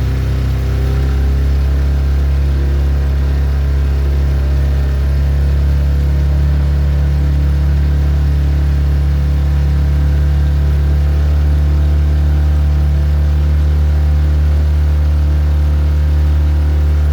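Motorboat engine running steadily under way, a loud, even low drone.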